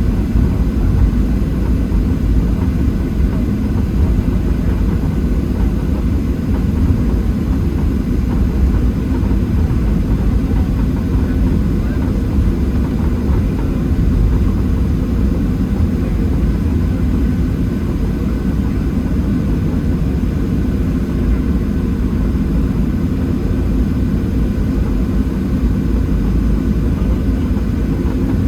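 Cabin noise inside a Boeing 737-700 at a seat near the wing: the CFM56 jet engines and airflow make a steady low rumble with a faint whine above it, holding level throughout.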